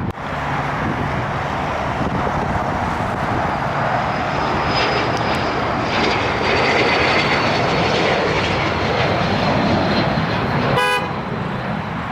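Jet airliner flying past on arrival: a steady rushing engine noise with a thin high whine that slowly falls in pitch. A brief horn toot sounds near the end.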